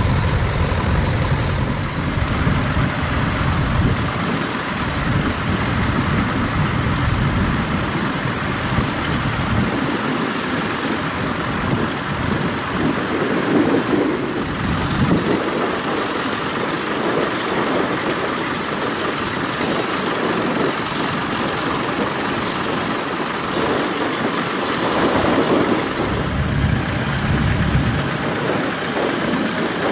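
Tractor engine running at a ploughing match. Its low rumble is strongest in the first few seconds and again near the end, fading in between as the tractor moves nearer and farther.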